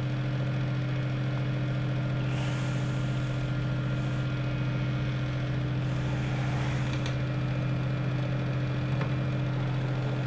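Arc welder's transformer humming steadily while powered on, a constant low mains hum, with a couple of faint clicks of handling.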